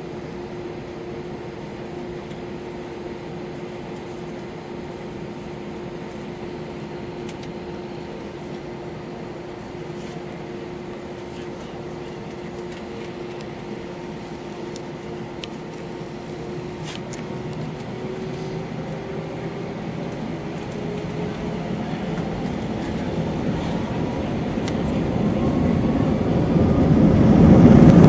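Airbus A321-231's IAE V2500 turbofan engines, heard from inside the cabin. A steady hum and whine at low power gives way to a whine rising in pitch and a steadily louder roar in the last third as the engines spool up for takeoff. It ends in a loud low rumble.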